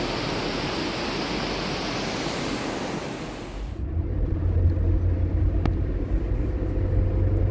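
River water rushing, which cuts off abruptly about three and a half seconds in and gives way to a low, steady rumble with a faint hum and a single click.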